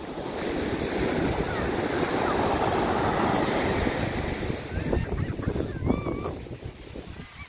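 Ocean surf: a wave breaks and washes up the beach, swelling over the first few seconds and easing off after about four and a half seconds, with wind buffeting the microphone.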